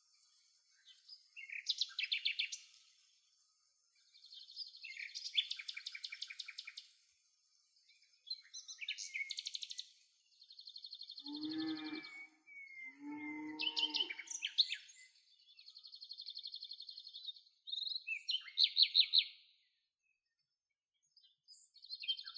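Birds chirping and singing in short bursts of high chirps and fast trills, with two lower, drawn-out animal calls near the middle.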